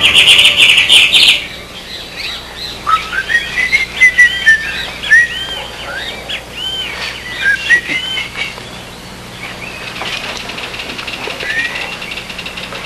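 Birds chirping: a run of short, quick, arching chirps, busiest in the middle, opening with a brief buzzy trill.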